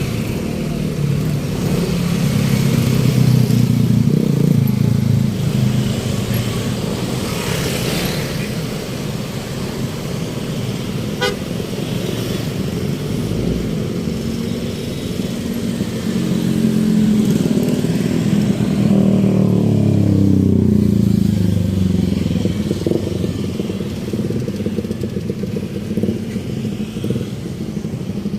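Street traffic: motor vehicle engines running, with one engine note dropping in pitch about twenty seconds in as it slows, and a brief horn toot.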